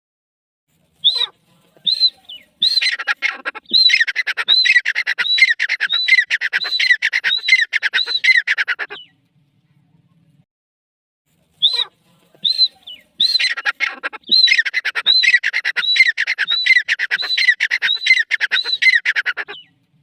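Gray francoline calling in two loud bouts of ringing, repeated phrases. Each bout opens with a few separate notes and then runs into a fast series of about two phrases a second, with a pause of a few seconds between the bouts.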